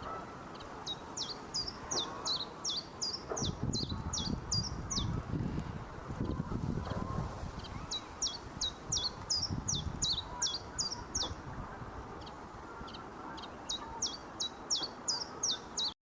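Common chiffchaff singing: three song phrases, each a run of short, high notes alternating between two pitches, about four notes a second. The phrases start about a second in, around eight seconds in, and near the end.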